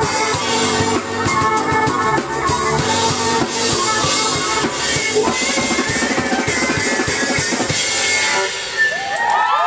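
A live trio of violin, drum kit and keyboard playing an up-tempo song over a driving drum beat. Near the end the drums drop out and whoops from the crowd rise over the music.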